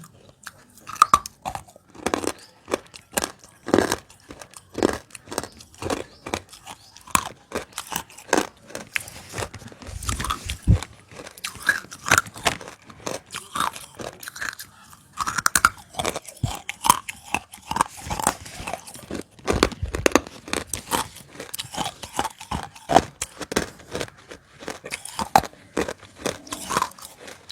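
Close-miked crunching and chewing of hard, full-roasted nakumatt pieces: a quick, irregular run of sharp crunches.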